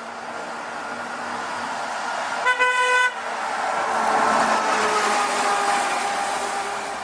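Road traffic with a car horn sounding once, a short blast of a little over half a second, about two and a half seconds in. A vehicle then passes, its sound swelling and its pitch falling as it goes by.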